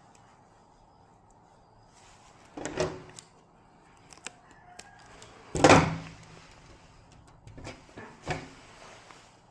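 Several short knocks and clattering handling sounds. The loudest comes about halfway through, with smaller ones before and after it.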